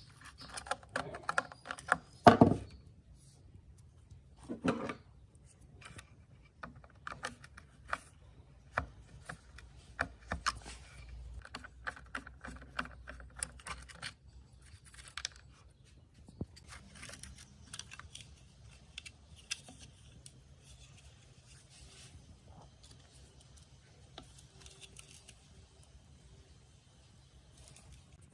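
Irregular clicks, taps and light scrapes of small parts and tools being handled, with a louder knock about two seconds in.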